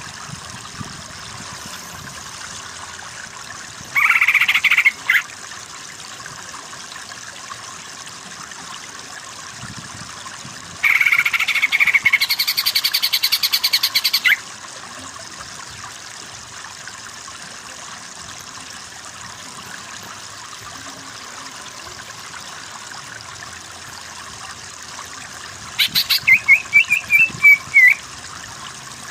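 Greater green leafbird (cucak ijo) singing in three bursts: a short phrase about four seconds in, a longer rapid trill in the middle, and a run of quick rising and falling whistled notes near the end. Under the song runs a steady background hiss.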